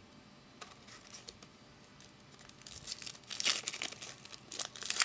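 Foil trading-card pack wrapper being torn open and crinkled, starting about halfway in after a quiet stretch with a few faint clicks.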